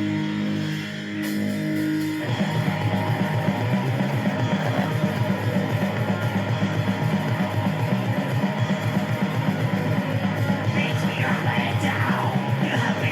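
Heavy metal song with distorted guitar: held chords at first, then about two seconds in a fast, driving low riff starts and keeps an even rhythm.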